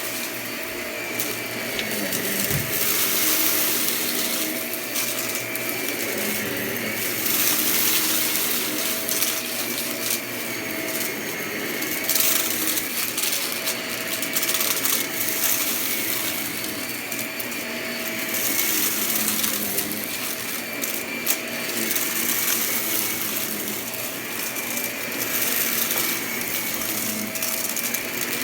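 Vacuum cleaner running, its motor holding a steady tone while the rush of air swells and fades every few seconds as it is pushed back and forth. Scattered crackles of crunchy debris can be heard as it is sucked up.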